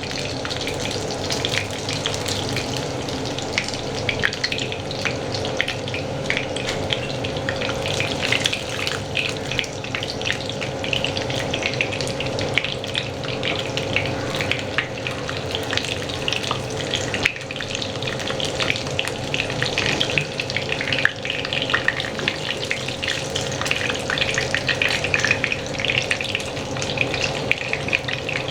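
Batter-coated chicken lollipops deep frying in hot vegetable oil, a steady dense sizzle and crackle of many small spits.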